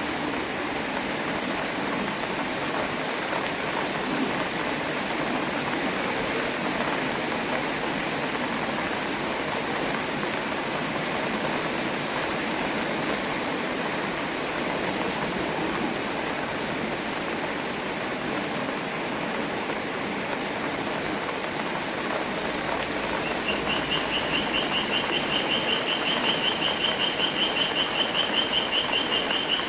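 Steady rain falling on a park pond, an even hiss. About three quarters of the way through, a rapid, even high-pitched trill begins and keeps going.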